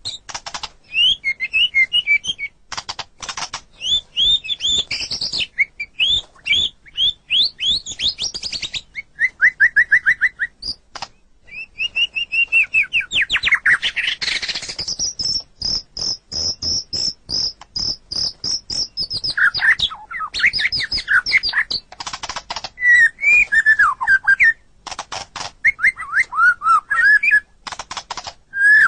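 White-rumped shama (murai batu) singing a long, varied song of quick whistled phrases mixed with harsh, rattling runs of rapid notes, with a stretch of high, fast repeated notes in the middle.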